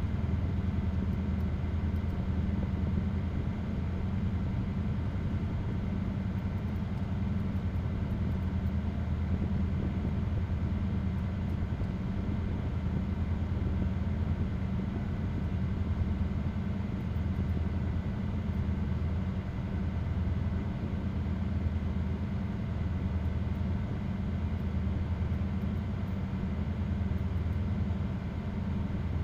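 Tugboat engine running steadily under way, a continuous low drone.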